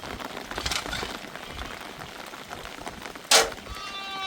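Light scattered ticking and patter, then a single sharp, loud crack about three seconds in. Right after it an animal starts a long bleat, slightly falling in pitch.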